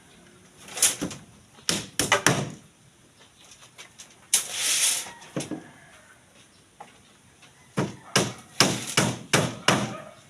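A series of sharp knocks and clanks, in two clusters near the start and near the end, with a short scraping rush about halfway: steel rebar being handled and worked by hand.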